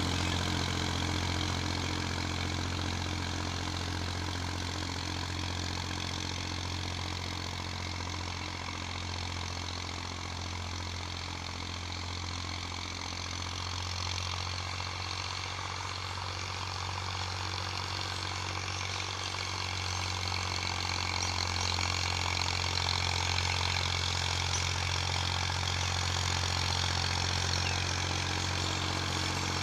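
Massey Ferguson 240 tractor's three-cylinder diesel engine running steadily under work. It grows a little quieter in the middle, then louder again later on.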